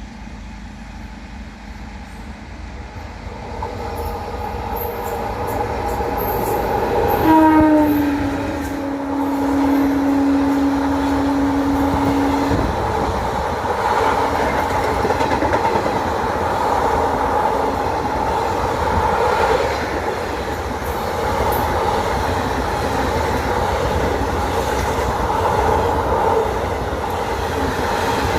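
Indian Railways train running, its rumble growing louder over the first several seconds. About seven seconds in the locomotive horn sounds one long note that dips slightly in pitch and holds for about five seconds. After that comes the steady rumble and clatter of the wheels on the rails.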